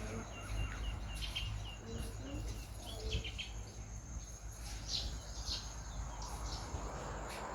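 Birds chirping and calling: a quick run of short high chirps in the first couple of seconds, and more calls about five seconds in, over a steady low rumble.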